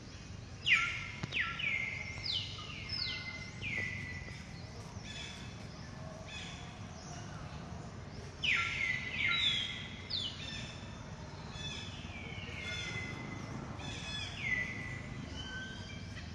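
A bird calling over and over: clear whistled notes that each sweep down in pitch and level off, about one a second, in two bouts. Steady outdoor background noise lies underneath.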